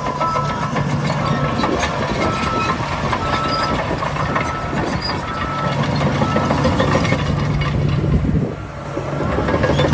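Heavy diesel earthmoving machinery running, with a reversing alarm beeping steadily about once a second or faster for the first two-thirds, then stopping. Scattered metallic clanks and rattles run throughout, and the engine note dips briefly near the end.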